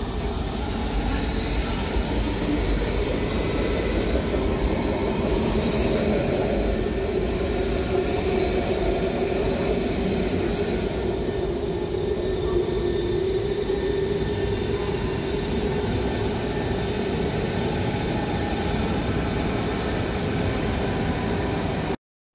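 Berlin S-Bahn electric train running along the platform, a steady rumble of motors and wheels with a held hum. Two short high-pitched squeals come about five and ten seconds in. The sound cuts off suddenly just before the end.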